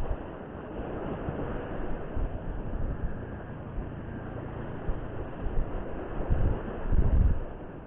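Wind buffeting the microphone over a steady wash of surf, with the heaviest low rumbles of wind near the end.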